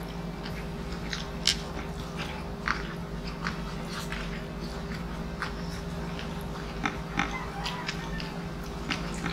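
Close-up mouth sounds of people eating crispy pata (deep-fried pork leg) and rice by hand: chewing and biting with scattered short, sharp clicks and smacks, over a steady low hum.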